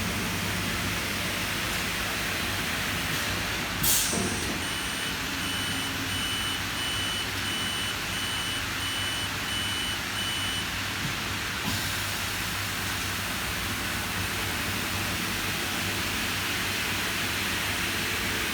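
Steady hum and hiss of an industrial CNC machine running. A sharp knock comes about four seconds in, followed by a warning beeper sounding about nine evenly spaced beeps, roughly one and a half a second, for about six seconds.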